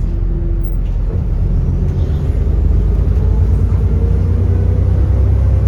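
Alexander Dennis Enviro400 double-decker bus's diesel engine pulling under acceleration: a heavy low drone with a faint whine that rises slowly in pitch from about a second in, getting slightly louder.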